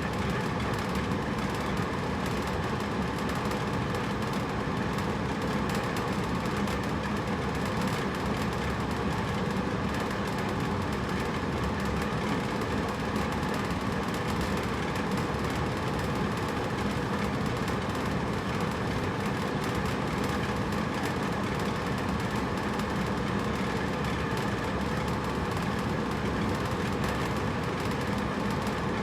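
Hotel room air conditioner running steadily: an even blowing hum of fan and compressor with a few faint steady tones, unchanging throughout.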